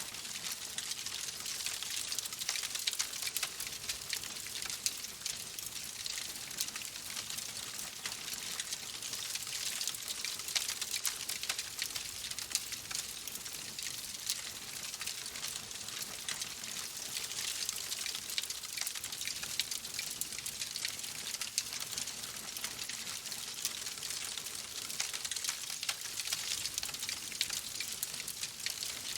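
Wood fire crackling: a steady hiss thick with many small, quick pops.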